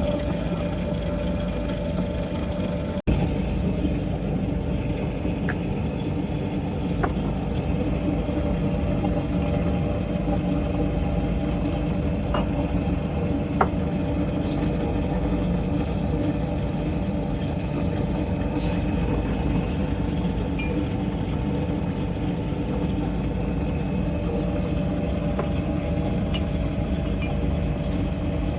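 Steady machine hum of running lab or factory equipment, a constant drone with a noisy hiss over it, with a few light clicks scattered through the first half.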